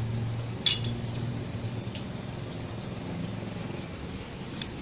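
Steady low engine-like hum with a few short sharp clicks, the loudest about half a second in.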